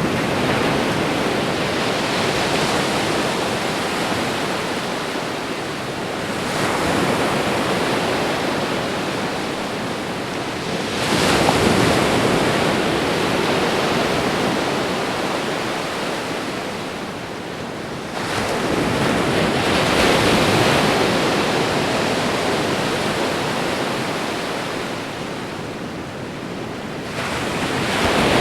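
Ocean waves breaking and washing on a shore: a steady rushing, with a new wave surging in suddenly and slowly fading every five to seven seconds.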